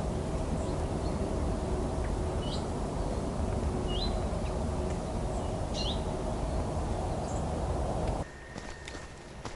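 Outdoor ambience of a steady rushing noise with three short, high bird chirps spaced about a second and a half apart. About eight seconds in it cuts abruptly to a much quieter background.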